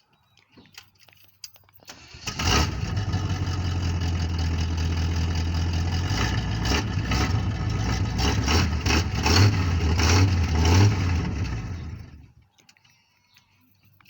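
Old truck's engine starting up about two seconds in and running loudly, with a few short revs near the end, then shut off suddenly about twelve seconds in. The engine runs again after long neglect but still needs a lot of work.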